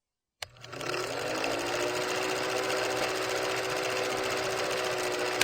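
A steady mechanical whirring with a fast rattle, starting with a click about half a second in, its pitch rising briefly as it gets going and then holding steady.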